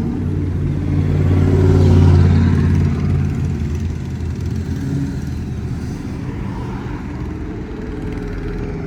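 Car engine driving past, its low exhaust note growing louder to a peak about two seconds in, then easing off as the car moves on.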